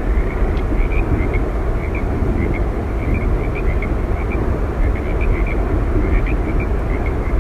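Steady, unbroken roar of Yosemite Falls, a large waterfall's water crashing and rushing, with faint high chirps repeating above it.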